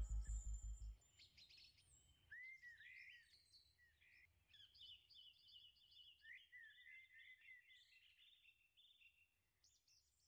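Electronic music with a pulsing beat cuts off about a second in, leaving faint birdsong: arched chirps and quick runs of repeated notes that die away near the end.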